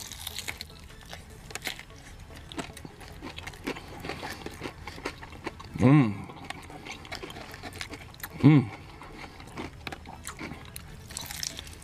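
Close-up chewing and wet mouth clicks from someone eating, with two short "mmm" hums of enjoyment, about six and eight and a half seconds in.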